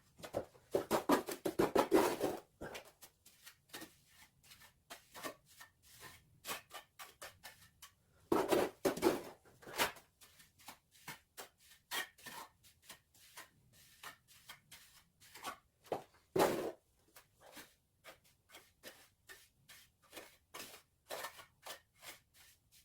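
Hand trowel working cement mortar: rapid, irregular clicks and taps, with three louder scraping passes about a second in, around eight seconds in, and around sixteen seconds in.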